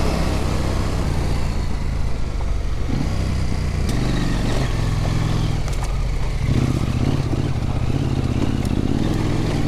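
Husqvarna Norden 901's parallel-twin engine running at low revs on a trail climb, the throttle opening and easing off a few times, with a few sharp knocks.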